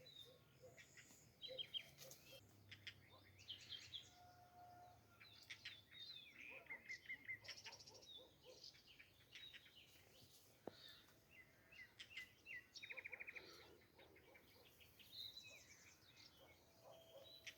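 Faint chirping of several small birds, with short calls and a few quick trills scattered throughout, over a faint low steady hum.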